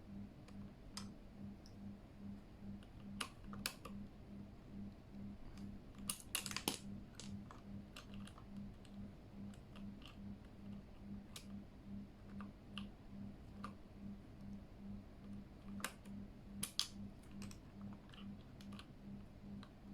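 Scattered sharp clicks from a Keychron K8 mechanical keyboard's keys and keycaps, with a couple of quick clusters of clicks, over a faint low hum that pulses about twice a second.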